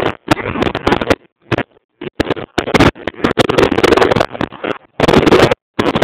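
2007 Baja X250 Extreme dirt bike engine running loud and uneven, coming in choppy bursts with short dropouts and crackly pops between them.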